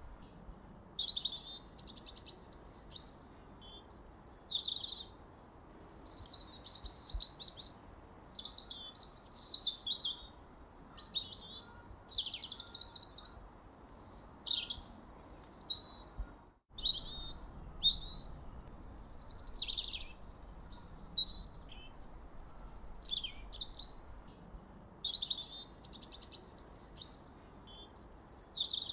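Small songbirds chirping and twittering in quick phrases of high, falling whistles and trills, over a faint steady background hiss. The sound drops out for an instant about halfway through.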